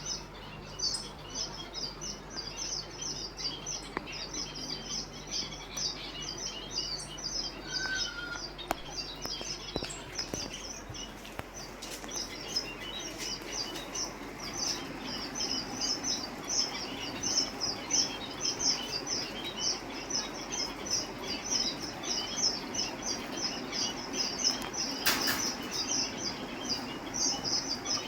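Many caged pet-shop birds chirping together: a dense, steady chatter of high, short chirps, several a second. There is a brief burst of noise near the end.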